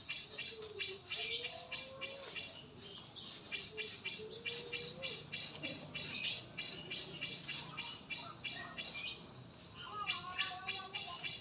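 Birds chirping in quick, repeated high notes, with a few lower whistled notes and a short pause near the end.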